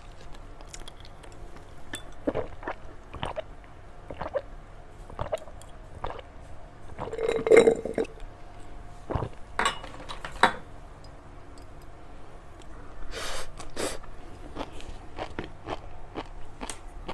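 Close-miked chewing and biting of a sweet snack, with short crisp crunches and wet mouth clicks coming irregularly. The loudest cluster of crunches comes about halfway through.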